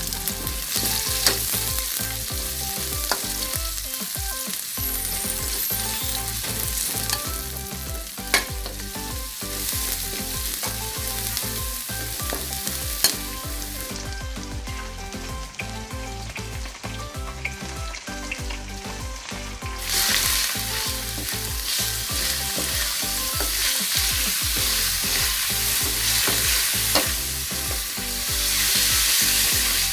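Onion, garlic and then ground chicken sizzling in hot oil in a wok, with a metal spatula scraping and clicking against the pan as it stirs. The sizzle grows louder in the second half.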